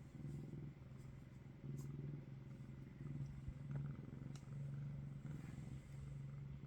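Domestic cat purring close by, a low steady rumble that swells and eases with each breath, about once a second.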